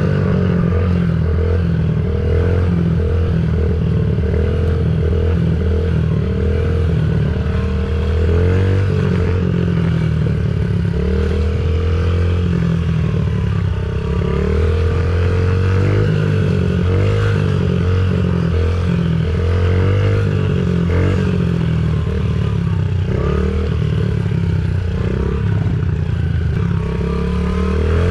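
Dirt bike engine running under changing throttle, its pitch rising and falling again and again as the rider opens and closes the throttle.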